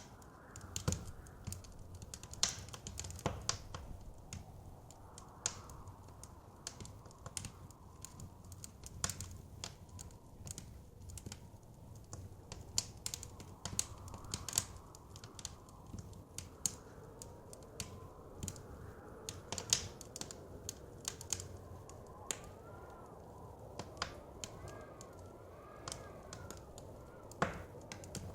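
Wood fire crackling in a fireplace, with irregular sharp pops over a low rumble of burning. In the second half, blizzard wind whistles faintly, rising and falling in pitch.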